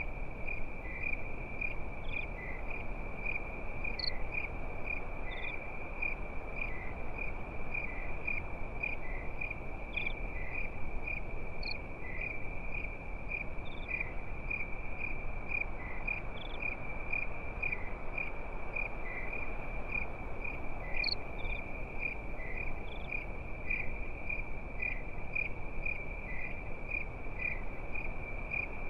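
Crickets chirping in a steady, even pulsing trill, with a few fainter higher chirps now and then, over a steady low background hiss.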